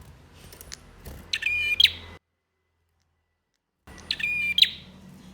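Male prenjak singing two loud bursts of fast, rapidly repeated chip notes about two and a half seconds apart. Between them the sound drops out to dead silence for about a second and a half, like an edit in the recording.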